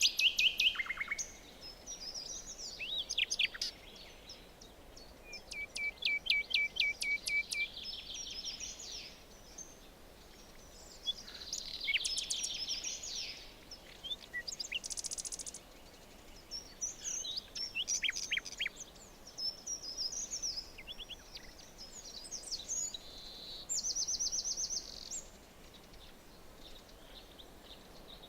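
Several songbirds singing and calling in a forest: short chirping phrases, quick trills of rapidly repeated notes and high buzzy series, over a faint steady background hiss.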